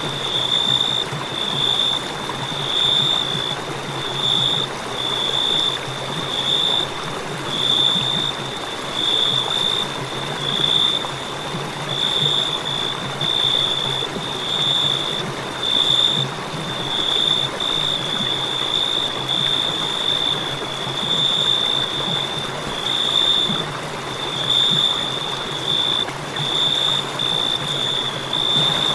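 Cricket chirping on without a break, one high, piercing note broken into pulses about once a second, over a steady background hiss.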